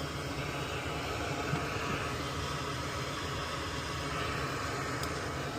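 Steady hiss of a blower fan running.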